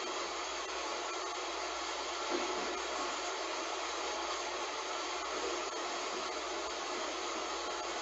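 Heavy rain falling, a steady, even hiss, with one brief louder tick a couple of seconds in.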